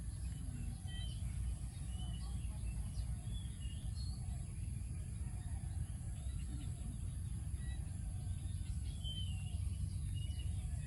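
Outdoor ambience: small birds chirping briefly now and then over a steady low rumble.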